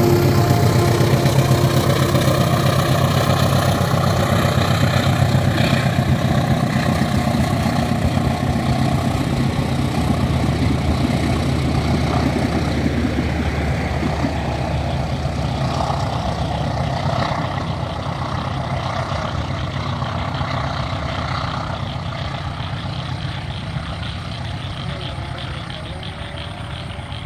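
CC 201 diesel-electric locomotive's GE 7FDL-8 diesel engine running under load with a steady low drone, pulling away from the station and fading gradually as it recedes.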